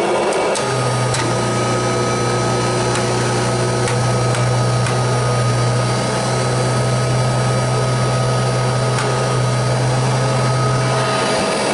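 Kirby Heritage II upright vacuum cleaner running steadily, its motor and fan giving a constant whine over a low hum. The hum briefly drops out near the end.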